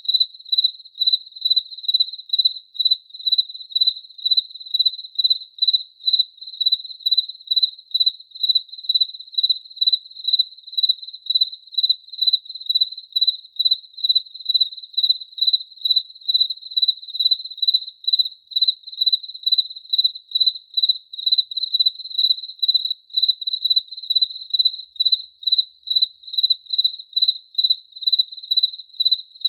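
A cricket chirping in an even, unbroken rhythm of about two high-pitched chirps a second.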